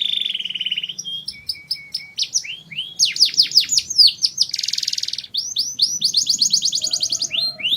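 Domestic canary singing a continuous song: a buzzy trill at the start, then fast runs of repeated notes, a series of quick downward-sweeping whistles, and a rapid rattling trill about five seconds in.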